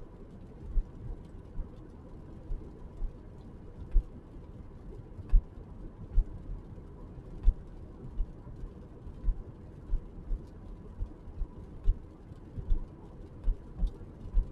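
Irregular sharp thumps, about one or two a second, over a steady low rumble: raindrops striking at or near the microphone in the rain.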